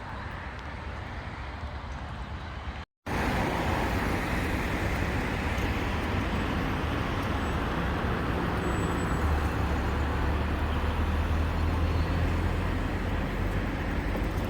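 Road traffic passing on a city highway: a steady hiss of tyres and engines. A heavier low rumble swells in the middle of it, as a larger vehicle goes by. The sound cuts out briefly about three seconds in, then comes back louder.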